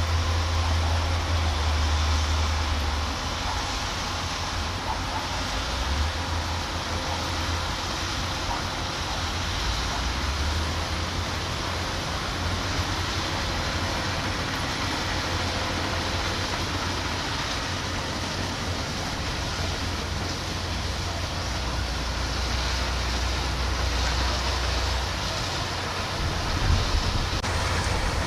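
Kubota DC-105X combine harvester's diesel engine and threshing machinery running steadily under load while harvesting rice, with a deep, uneven rumble underneath.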